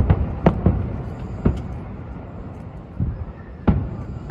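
Aerial fireworks shells bursting: a run of about five sharp bangs at uneven gaps, each with a short echoing tail, over a steady low rumble.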